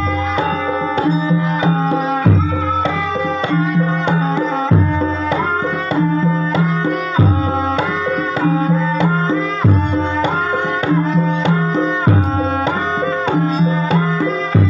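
Javanese ebeg accompaniment music with hand-drum strokes over ringing pitched percussion and a melodic line on top. A deep low note falls about every two and a half seconds.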